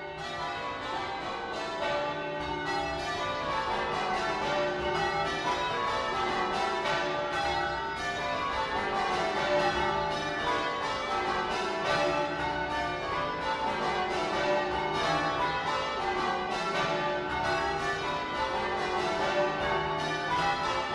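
Church bells ringing changes: a continuous run of bell strikes in repeating sequences that step down in pitch, over and over.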